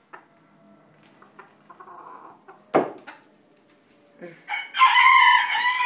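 Bantam rooster crowing: one long crow of about two seconds that starts past the four-second mark and is the loudest sound. A single sharp knock comes a little before it, nearly three seconds in.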